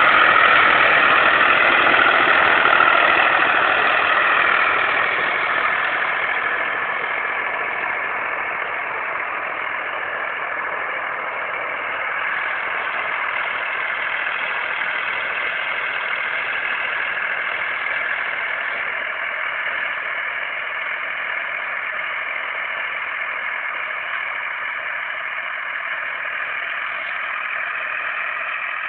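Tractor engine running steadily. It is louder for the first few seconds, then settles to a lower, even level.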